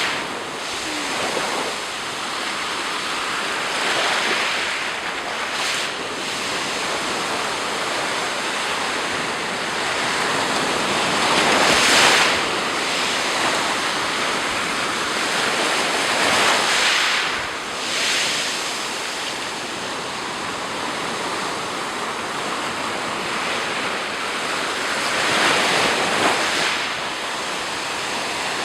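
Black Sea surf breaking on the shore, a steady wash of waves with a louder break every few seconds, and some wind on the microphone.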